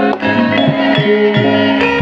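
Javanese gamelan-style ensemble music: ringing held notes from struck instruments over repeated drum and plucked strokes.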